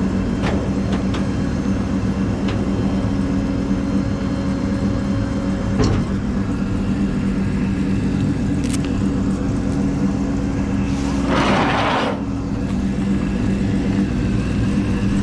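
A vehicle engine idling steadily, with a single click about six seconds in and a short hiss about eleven seconds in.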